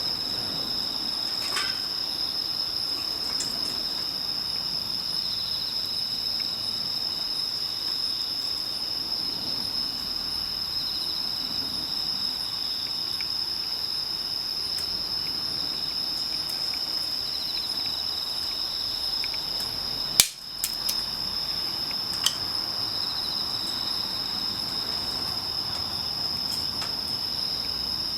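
Insects chirring steadily in one high, unbroken tone, with a fainter pulsing chirp that returns every few seconds. A few sharp pops cut in, the loudest about twenty seconds in and a smaller one two seconds later.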